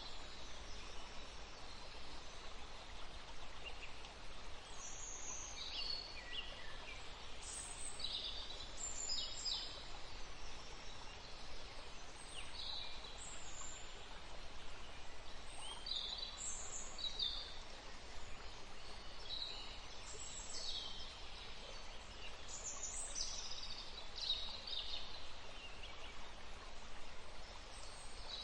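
River water flowing steadily, with songbirds chirping over it in short high phrases every second or two.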